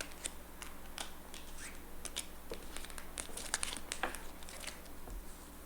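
Playing cards being handled on a table: a run of irregular light snaps and rustles, thickest a little past the middle.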